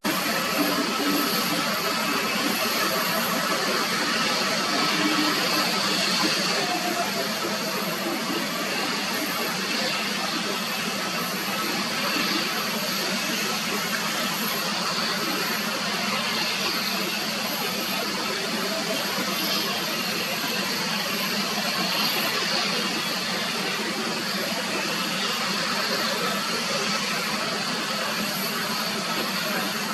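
Jet airliner engines running with a steady rushing noise and a faint high whine, easing slightly in the first few seconds.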